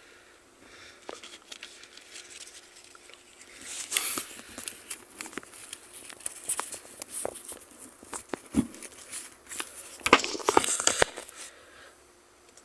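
Handling noise of a neoprene motorcycle face-and-neck cover being fitted on: irregular rustling, scraping and crinkling with small clicks, loudest about 4 seconds in and again between 10 and 11 seconds.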